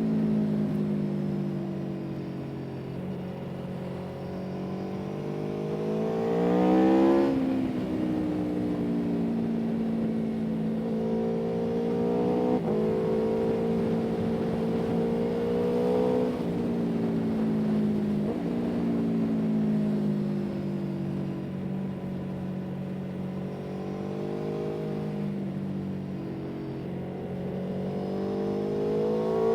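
A vehicle engine running under way, its pitch climbing and then dropping several times, as in accelerating through gear changes. The loudest rise and drop comes about seven seconds in.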